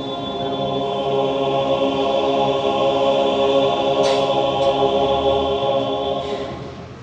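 Men's church choir holding a long final chord, swelling at first and then fading away near the end as the song closes.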